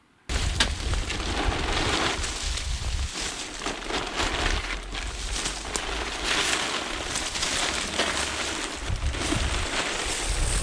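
Wind buffeting the microphone, with a low uneven rumble under a steady rustling hiss; it cuts in suddenly just after the start.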